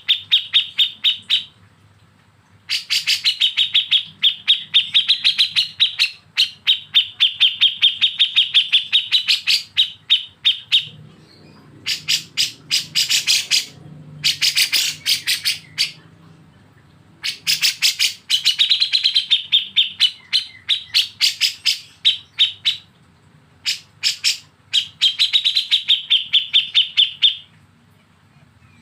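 Songbird's 'besetan' song: fast runs of sharp, rapidly repeated high notes lasting several seconds each, broken by short pauses, over a faint low hum.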